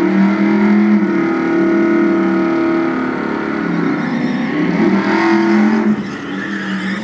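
A Ford Lightning pickup's V8 running loud at fairly steady high revs, its pitch dropping briefly twice and picking up again.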